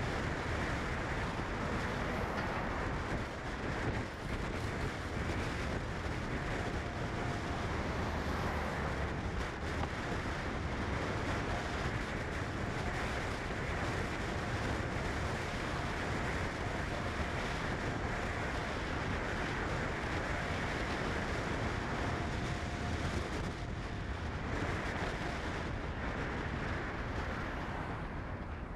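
Steady road and engine noise of a moving vehicle, with a faint thin tone that comes and goes.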